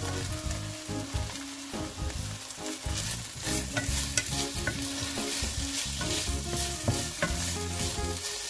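Chicken, onion and carrot slices sizzling in hot oil in a nonstick frying pan while being stirred with a wooden spoon. The spoon gives sharp clicks and scrapes against the pan.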